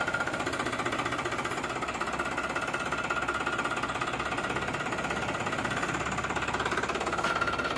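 New Holland 3600 tractor's diesel engine running steadily, a fast even pulsing rhythm with no change in speed.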